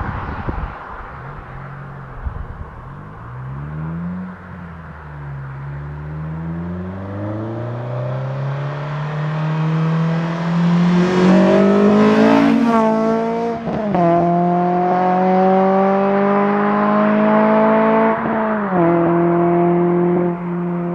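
K24/K20-swapped Honda Civic four-cylinder engine breathing through a Skunk2 70 mm exhaust with a gutted catalytic converter, accelerating hard: the note climbs steadily for several seconds, then drops suddenly at gear changes about two-thirds through and again near the end, climbing once more after each.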